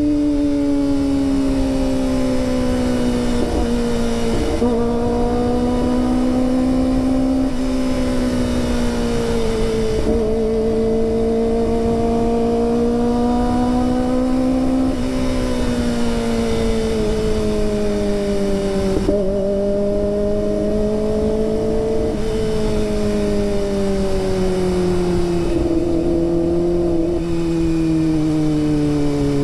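Kawasaki ZX25R's 250 cc inline-four engine running at speed, its note slowly rising and falling with the throttle and briefly breaking every few seconds, the pitch sinking toward the end.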